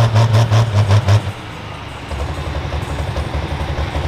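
Turbocharged pro stock pulling tractor engines. A loud, pulsing engine note cuts back abruptly about a second in, then a deep, lumpy idle rumble builds from about two seconds.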